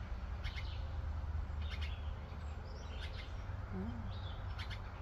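Baby birds chirping: short, faint high calls repeated about once a second over a steady low hum.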